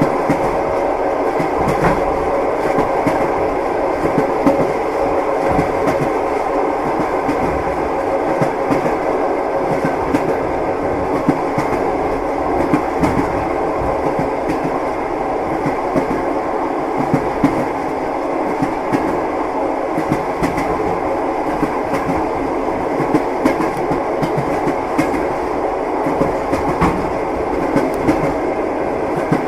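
Train wheels clattering on the rails: a steady running rumble with frequent short clicks and knocks from the wheels and carriage.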